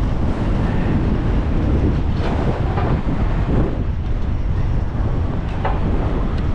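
Strong wind buffeting the camera microphone through its wind guard, a continuous loud low rumble.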